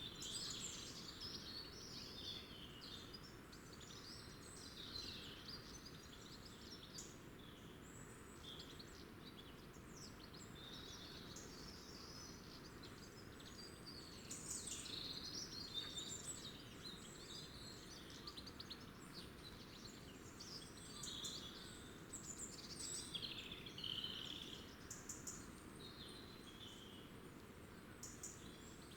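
Wild birds chirping, many short high calls one after another and overlapping, over a faint steady low background noise.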